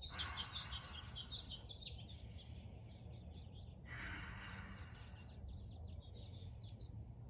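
Small birds chirping over and over in the background, faint, over a low steady rumble.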